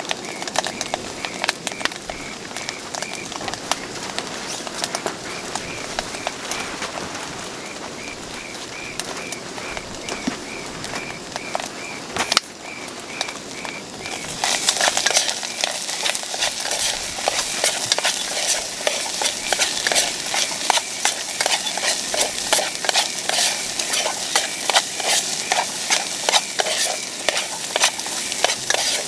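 A stir-fry sizzling in a hot pan, likely the kwetiau (flat rice noodles) named in the title. For the first half the sizzle is quieter, under a steady pulsing high chirp. After a knock about halfway, the sizzle turns much louder, with the quick clatter of a spatula stirring against the pan.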